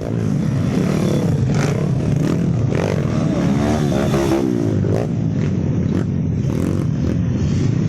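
Trail motorcycle engine running, its pitch wavering up and down through the middle, with a few short knocks and rattles.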